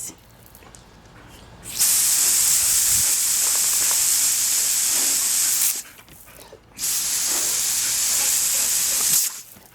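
Garden hose spraying water: a steady, loud hiss that runs for about four seconds, stops for about a second, then runs again for about two and a half seconds.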